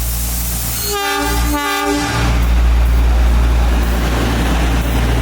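Train running with a steady low rumble, its horn sounding two blasts about a second in.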